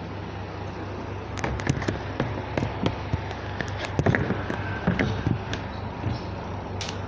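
Irregular clicks and knocks, like things being handled and set down on a semi-automatic washing machine, over a steady low hum.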